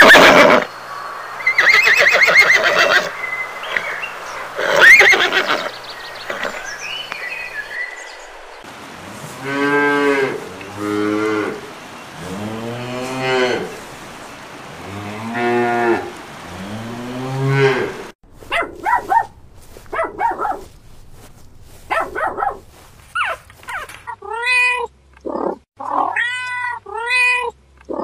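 A run of animal calls: loud, harsh calls at first, then a cow mooing about five times in long, low, arching calls, then shorter, higher calls ending in three cat meows.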